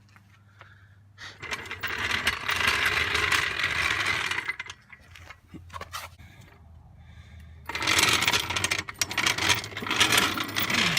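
A tool working on the exhaust's fasteners gives two bursts of rapid metallic rattling, each lasting about three seconds, with a short lull between them.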